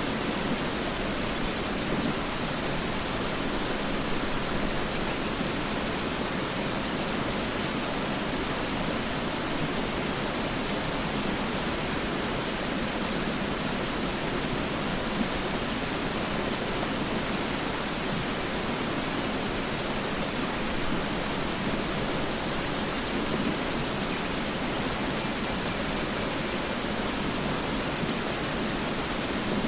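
Mountain river rushing steadily: an even, unbroken wash of flowing water.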